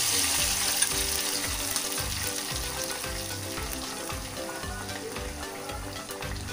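Ground onion, tomato, ginger and garlic masala paste sizzling in hot oil in a small pan. It is loudest as it goes in, then settles down gradually.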